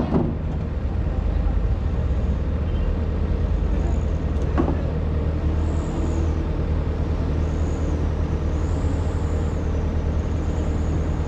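Excavator's diesel engine running steadily, with a single clank about halfway through and a faint wavering high whine in the second half.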